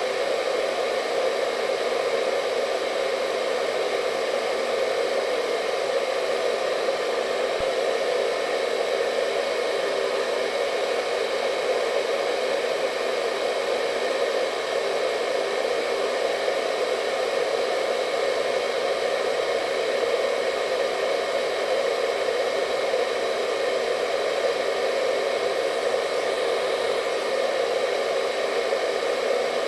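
Hair dryer running steadily: an even, unbroken rush of air and motor noise, strongest in the lower middle, with a few faint steady whine tones on top.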